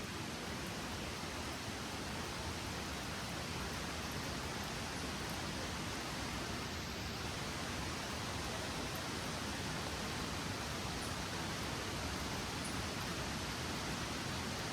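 Steady rush of falling water in the rainforest, an even hiss with no breaks.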